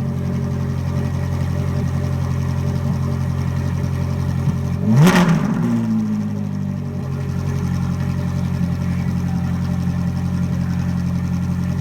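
Ferrari 458 Italia's V8 engine idling steadily, with one quick blip of the throttle about five seconds in that rises and falls straight back to idle. The note drops away at the very end as the engine winds down.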